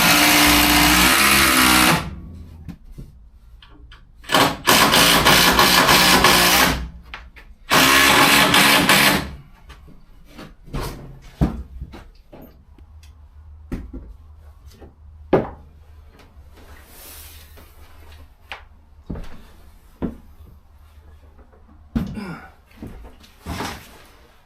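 Power drill run in three bursts of about two seconds each, followed by scattered short knocks and taps.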